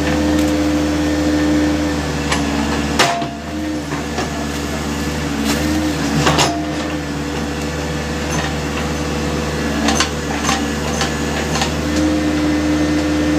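Backhoe's diesel engine running steadily, its pitch wavering slightly now and then, with several sharp knocks from the machine, the loudest about three seconds in and again about six seconds in.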